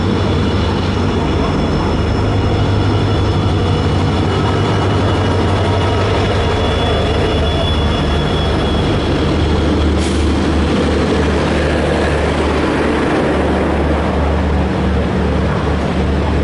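Train running: a steady, loud low rumble and hum with continuous rolling noise, and a brief click about ten seconds in.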